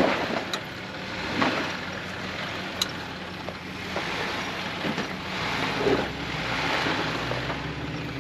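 An off-road vehicle's engine running at low revs as it crawls over rock. There are two sharp clicks, about half a second and about three seconds in.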